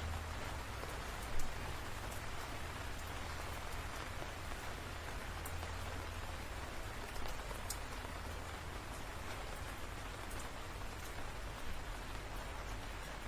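Steady rain falling, with scattered sharp drop impacts and one louder drop hit about a second and a half in.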